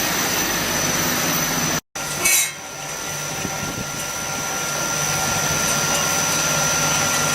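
Steady industrial machinery noise from a running continuous carbonization furnace plant, its fans and rotating drum, with a thin high whine over it. The sound cuts out for a moment about two seconds in, a short hissing burst follows, and then the steady running noise carries on.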